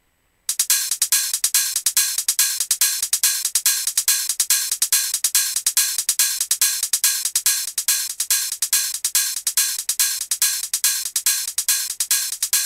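Electronic trance synth riff of short, evenly repeated staccato notes. It is bright and thin, with no bass under it, and it starts suddenly from silence about half a second in.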